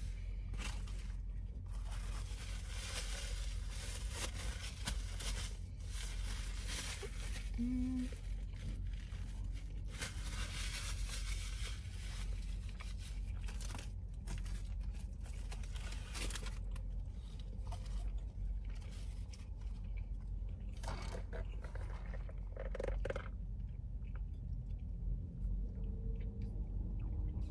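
Close-up chewing and crunching of a bacon cheeseburger, in irregular bursts that thin out in the second half. A low steady hum runs underneath, and near the end there is a sip through a straw.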